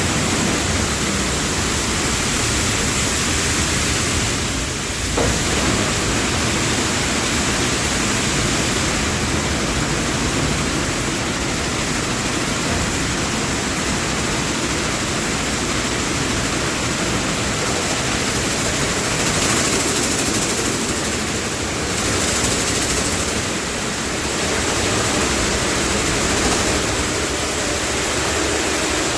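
Automatic car wash running: a steady, loud rushing noise with slight dips in level now and then.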